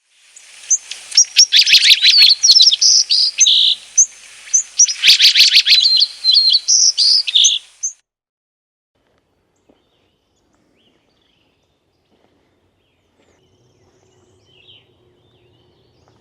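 A songbird singing loud, fast, twittering phrases in two bouts, which stop about eight seconds in; faint calls follow near the end. Twice during the song a camera shutter fires in quick bursts of about ten clicks a second.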